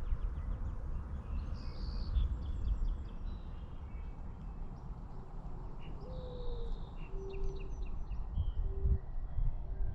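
Small woodland birds chirping with many short, high notes, and a few low cooing notes in the second half. A steady low rumble runs underneath.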